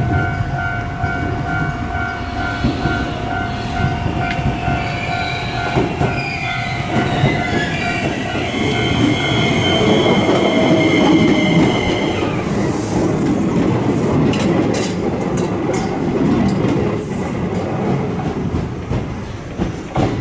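Shizuoka Railway electric train passing a level crossing: the crossing's warning bell dings rapidly over and over until about ten seconds in, while the train's electric motors whine, stepping upward in pitch, and the wheel rumble builds to its loudest around the middle. In the later part the wheels click sharply over rail joints as the train goes by.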